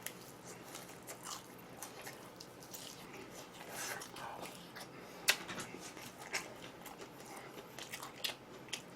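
Quiet chewing and biting of fried chicken close to the microphone: soft crunches and scattered sharp clicks, the sharpest about five seconds in.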